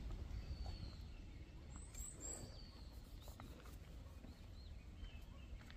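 Faint outdoor ambience: a low steady rumble with a few thin, high bird whistles and short chirps from unseen birds. There are two drawn-out whistles in the first three seconds and brief high chirps around the middle.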